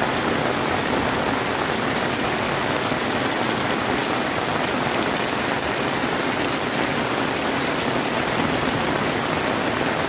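Heavy rain falling steadily: a dense, even hiss of countless drops striking surfaces, with no let-up.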